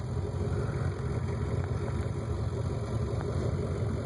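Chevy 355 small-block V8 idling steadily with a low rumble.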